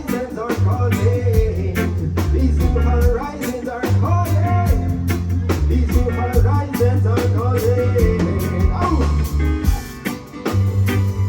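Live reggae band playing an instrumental passage: a heavy bass line and steady drums under a melodic lead line from guitar or keys, with a short drop in loudness near the end.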